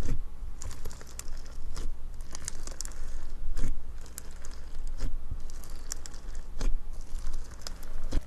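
Slime being squeezed and pressed by hand, making an irregular run of crinkly crackles and sharp pops, with louder snaps about three and a half and seven seconds in.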